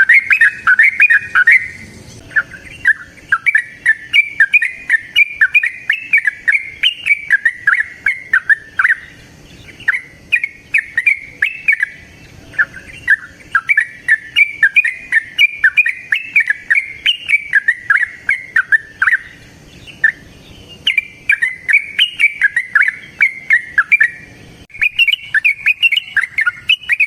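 Yellow-vented bulbul (trucukan) singing a long run of rapid chirping notes, the long 'ropel' song that bird keepers play to get other trucukan singing, broken by several short pauses.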